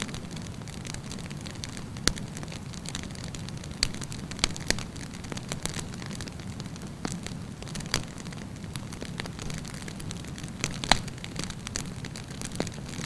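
Wood campfire burning: a steady low rumble of flames with irregular sharp crackles and pops, a few louder pops around two, four to five and eleven seconds in.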